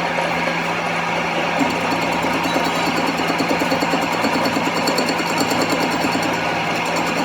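A workshop machine tool running steadily with an even hum, a fast rhythmic chatter setting in about a second and a half in.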